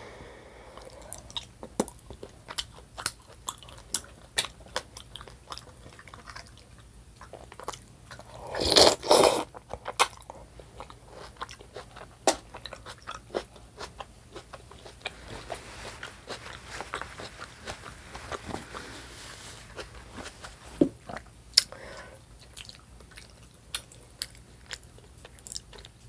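A person chewing food close to the microphone, with many short sharp mouth clicks. About nine seconds in there is a louder noisy burst lasting about a second.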